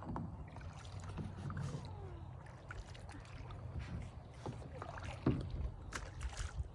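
Kayak being paddled: paddle strokes and water sounds with a few sharp knocks over a steady low rumble.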